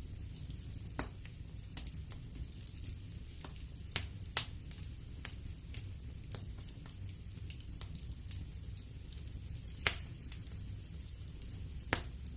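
Wood fire burning in a fireplace: a steady low rumble of flames with scattered sharp crackles and pops from the burning logs, the loudest pops about four seconds in, near ten seconds and near the end.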